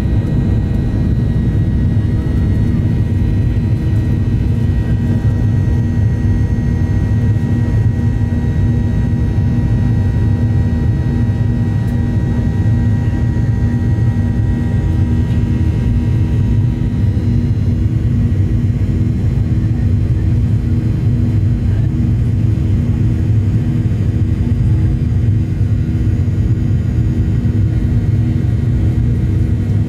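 Boeing 737-800's CFM56-7B jet engines running, heard from inside the cabin: a steady, loud low drone with a few constant whining tones over it.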